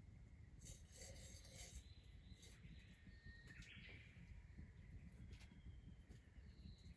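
Near silence with faint bird calls: a few thin whistles and a short chirp about halfway through, over a low rumble.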